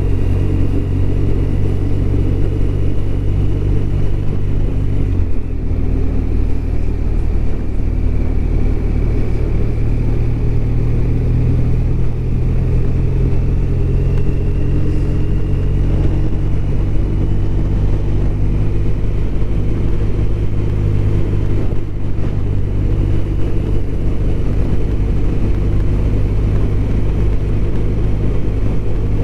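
BMW R1200RT's flat-twin engine running steadily on the move, a continuous low drone whose note shifts abruptly about five seconds in, with a faint high whine that slowly rises.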